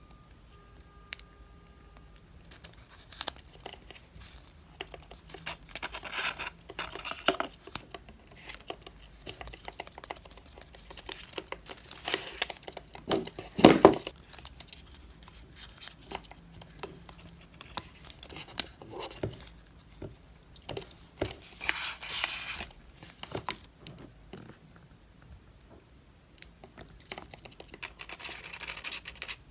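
Packaging being torn open and crinkled by hand, with scattered clicks and rustles of handling, and one loud bump of handling about halfway through.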